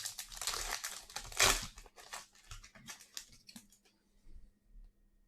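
A plastic trading-card pack wrapper being torn open and crinkled, loudest about one and a half seconds in, then a few light crackles and clicks as it is handled.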